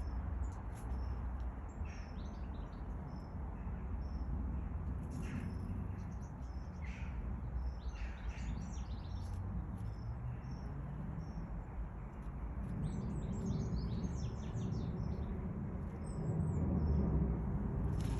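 Garden birds chirping and calling in short, high notes, busiest in two spells in the middle and later part, over a steady low rumble of outdoor background noise.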